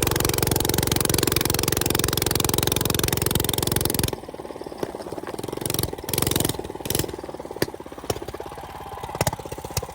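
Small minibike engine running loudly up close, then dropping to a quieter, steady idle about four seconds in, with a few sharp clicks over the idle.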